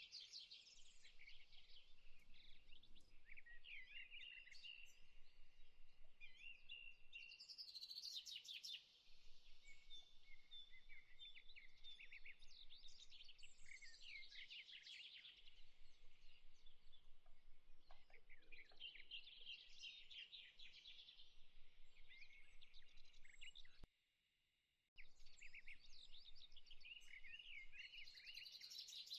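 Faint birdsong: many small birds chirping and trilling continuously in high, quick phrases. It cuts out completely for about a second near the end.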